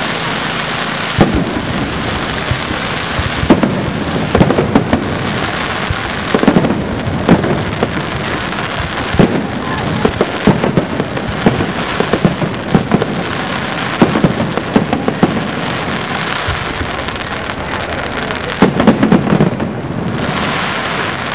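Aerial fireworks bursting in quick succession: sharp bangs, many of them tight clusters, over a steady crackling hiss. A dense run of bursts comes about nineteen seconds in.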